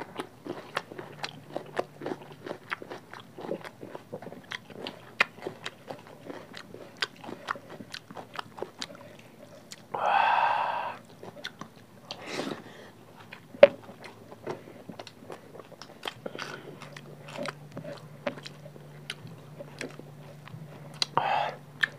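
Close-miked chewing, wet lip-smacking and mouth clicks of two people eating rice and curry by hand. A short hummed vocal sound comes about ten seconds in, and a sharper click comes a few seconds later.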